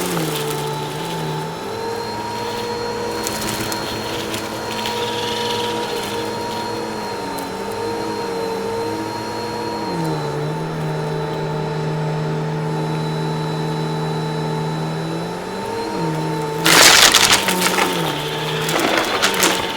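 Vacuum cleaner motor running steadily, its pitch dipping and rising now and then as the load on it changes. It picks up crunchy debris with short crackling bursts, the loudest about 17 seconds in.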